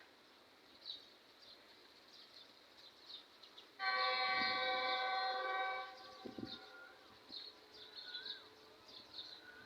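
Train locomotive horn sounding one steady blast about two seconds long, starting about four seconds in. Birds chirp high and faint throughout.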